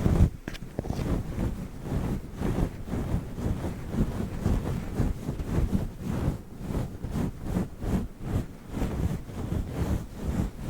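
Fluffy microphone windscreen being rubbed and scratched right on the microphone, possibly with witch-finger nail tips, giving a dense, rumbling brushing noise in quick, uneven strokes a few times a second.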